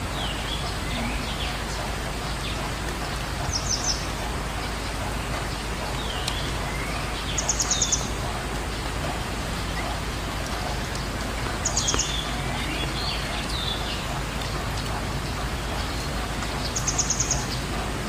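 A songbird singing short phrases, each ending in a fast high trill, about every four seconds, with softer chirps in between, over a steady background hiss.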